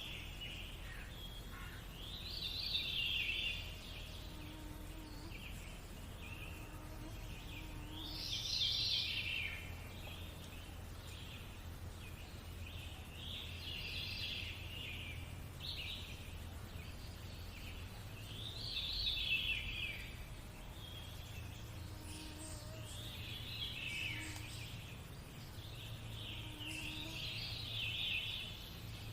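Nature-sounds background of birdsong: short bursts of bird chirping roughly every five seconds, over a steady low rumble.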